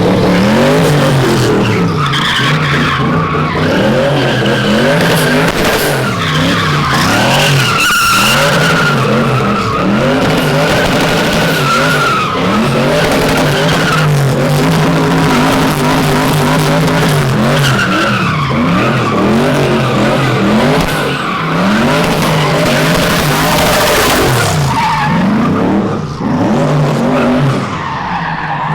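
A drift car sliding with its tyres squealing, the engine revving up and falling back again and again as the driver works the throttle.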